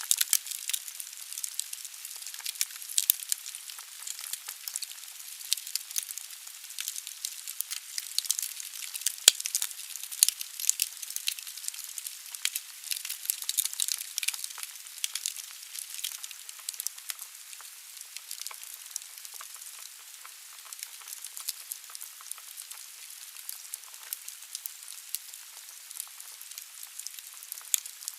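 Wood logs burning in a fireplace: a steady hiss of the fire with many small, sharp crackles and pops from the burning wood, thinning out a little in the second half.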